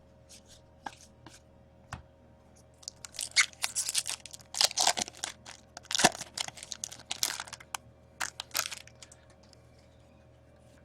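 Paper-and-foil trading-card pack wrapper being torn open and crinkled by hand, in a run of quick rustles and crackles between about three and nine seconds in.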